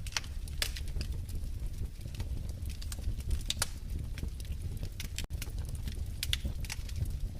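Wood fire burning in a fireplace: irregular crackles and pops over a steady low rumble of the flames. A split-second break in the sound about five seconds in.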